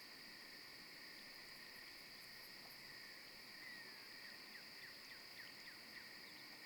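Faint evening insect chorus: a steady high-pitched trilling of crickets at two pitches, with a few faint short chirps in the middle.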